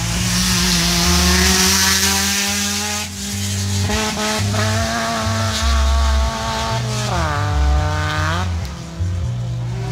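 Rally car engine held at high, steady revs, dipping briefly about seven seconds in as the throttle is lifted and rising again. Wind buffets the microphone.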